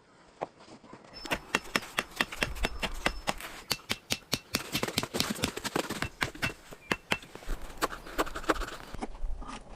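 A dense run of sharp, irregular clicks and knocks, a few of them ringing briefly. It starts about a second in and stops near the end.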